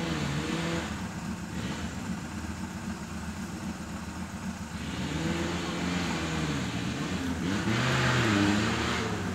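Engine of a small off-road 4x4 running with its bonnet open and being revved up and down in slow swells, once about five seconds in and again, louder, near the end.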